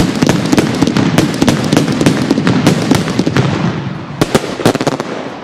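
Fireworks crackling: a dense, rapid run of sharp pops and crackle that thins out and fades near the end, with a few louder single pops.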